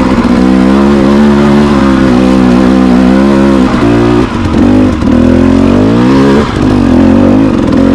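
Dirt bike engine running hard under load, its pitch holding steady, then dipping and climbing again several times with throttle changes in the second half.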